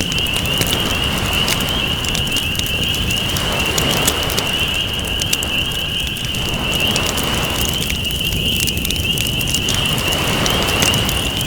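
Campfire crackling with frequent sharp pops, over ocean waves washing in and out in slow swells every few seconds. A steady high-pitched drone sits above both.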